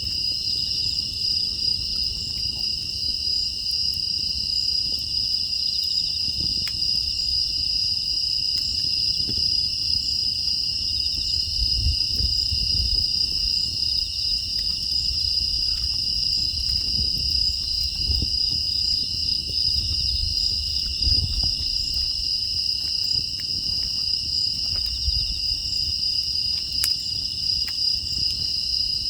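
Crickets and other grass insects chirring in a steady, unbroken chorus, high-pitched, over a low rumble, with faint scattered clicks.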